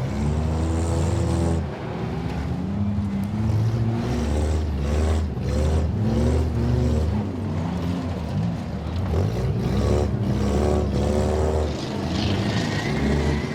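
Demolition derby cars' engines running and revving up and down, several at once, with a few short knocks of impacts between the cars.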